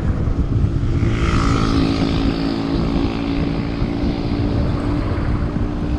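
Wind buffeting the microphone of a road bike riding at about 36 km/h. From about a second in, a motor vehicle's engine runs alongside with a steady hum and tyre hiss, fading as it passes.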